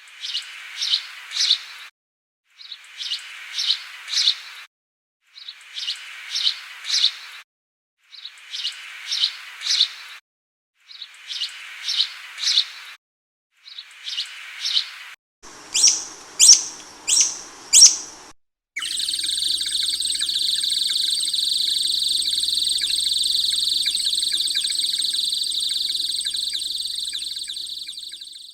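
Bird calls: short bursts of three or four high chirps repeating every few seconds, then four louder, sharper chirps, then an unbroken high trill that fades out at the very end.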